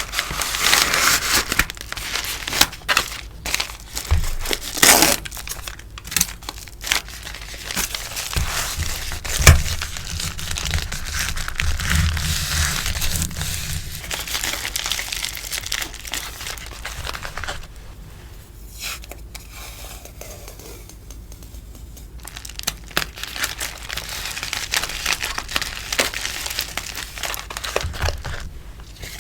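Sticker order packaging being handled, rustling and crinkling, with many small clicks and a few soft low thumps about a third of the way in; it quietens for a while past the middle, then picks up again.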